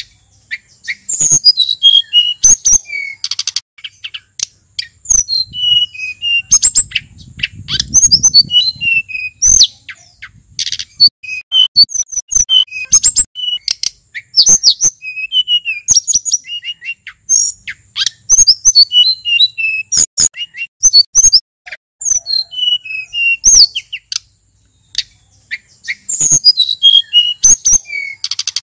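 Male sulingan gunung songbird singing a fast, varied song of short high chirps and whistled slurs, broken by brief pauses.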